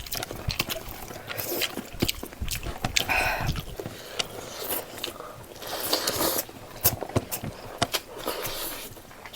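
Close-miked eating of pork leg gravy with rice: chewing, with many short wet clicks and lip smacks.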